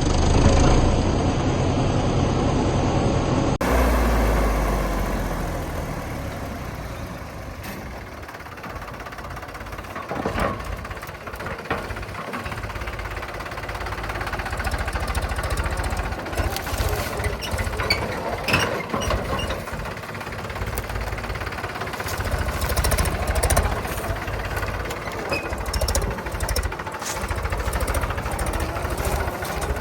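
Heavy diesel machinery running steadily with a deep engine rumble, with scattered sharp metallic knocks and clanks through the second half. The sound changes abruptly about three and a half seconds in.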